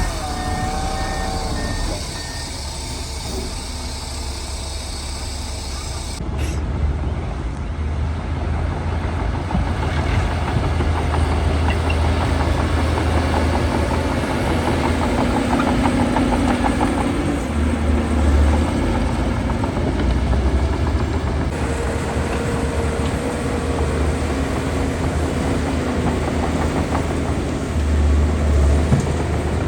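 Heavy diesel earthmoving machinery working: bulldozer and dump truck engines running steadily with a low rumble that swells a few times under load.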